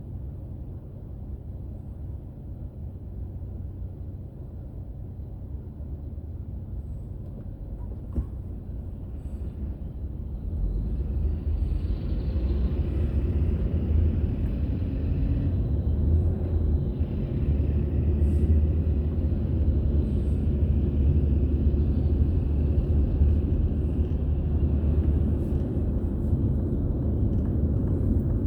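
Car on the move: steady low road and engine rumble, which grows louder about ten seconds in and stays up.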